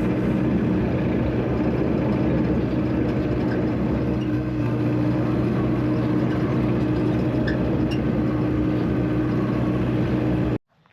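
A heavy vehicle engine runs at a steady speed with a constant low hum, then cuts off suddenly near the end.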